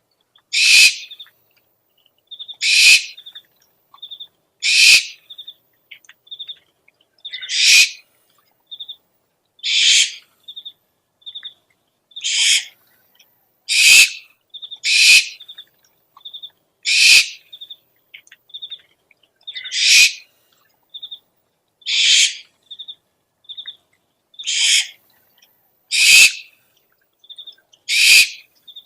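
Owl calls from an owl lure recording: harsh, raspy screeches about every two seconds, with short high piping notes in between.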